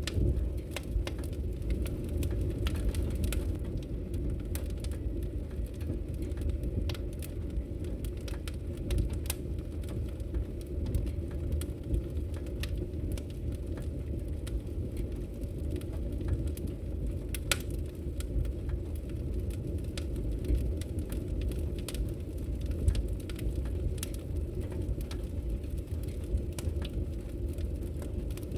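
Wood fire burning in a fireplace: irregular sharp crackles and pops from the logs over a steady low rush.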